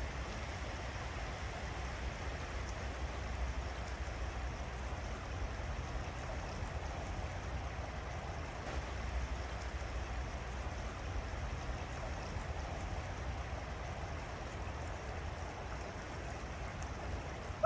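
Creek water flowing over a stream crossing, a steady rush of running water with a low rumble beneath it.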